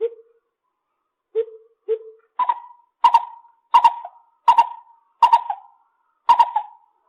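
Lesser coucal calling: three short hollow low notes, then a run of higher notes at about one every 0.7 seconds.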